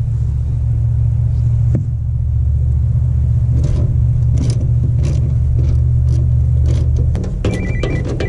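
A loud, steady low mechanical rumble that eases off about seven seconds in. A run of light clicks and knocks sits over it in the middle. A high, repeated electronic beeping starts near the end.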